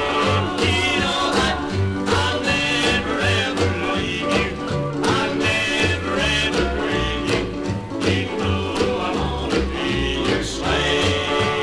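A 1956 country record playing: singing over guitar, with a bass beat that keeps steady time.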